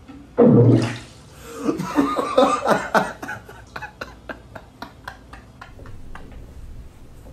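A loud short burst about half a second in, then a man laughing hard in gasping bursts that thin out over the following seconds.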